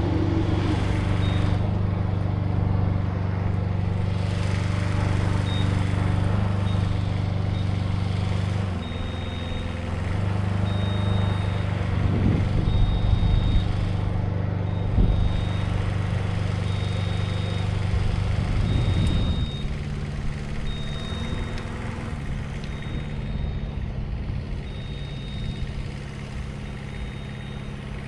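Heavy equipment engine running steadily, with a short high-pitched alarm beep repeating every second or two. The engine's pitch and load shift about nine seconds in and again about nineteen seconds in.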